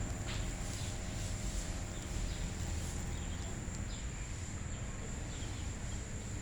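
Steady high-pitched insect trilling with a few faint short chirps over low background noise.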